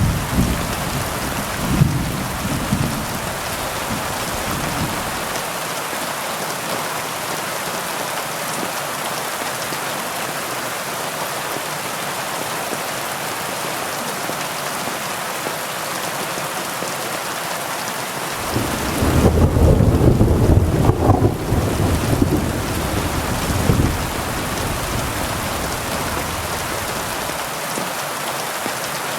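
Heavy rain falling steadily, with low rolling thunder at the start that fades within a few seconds and a second roll of thunder a little past the middle that lasts several seconds.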